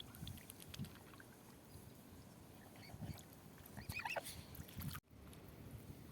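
Faint waterside sounds of waterfowl moving on water, with soft splashes and a short bird call about four seconds in; the sound cuts out for an instant just after five seconds.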